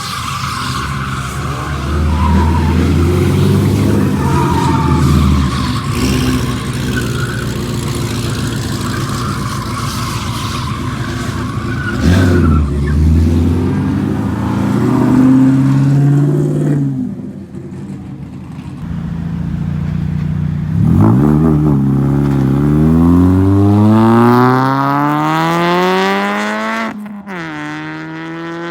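Cars pulling out of a car meet under hard throttle, engines revving loudly. Past the halfway point one car accelerates hard, its engine note climbing steadily for several seconds, and drops abruptly near the end at a gear change or lift-off.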